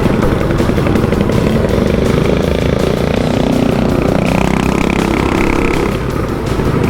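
Mini bike engines in a dirt-track race, small single-cylinder 212cc-class motors running hard, their pitch rising and falling as the throttle is worked.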